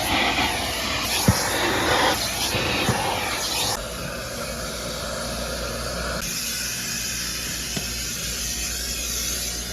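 Automatic car wash equipment running, heard from inside the car: a steady rushing hiss, louder for the first few seconds and then settling a little quieter, with a few faint knocks.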